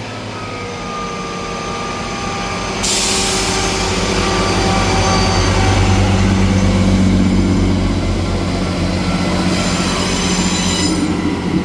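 Two coupled Class 158 diesel multiple units running at the platform, their engines droning steadily and growing louder as they get ready to pull away. A loud hiss sets in suddenly about three seconds in and carries on until near the end.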